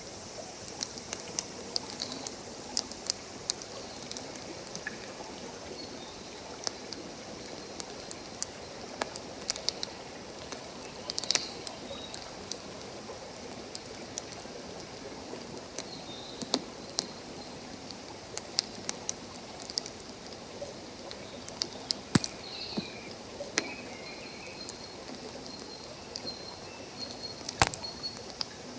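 Wood campfire crackling, with many irregular sharp pops, the loudest about 22 and 27 seconds in, over the steady rush of a stream.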